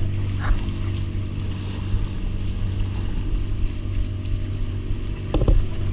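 Fishing boat's engine running steadily under way, a low drone, with wind and water noise and a brief knock near the end.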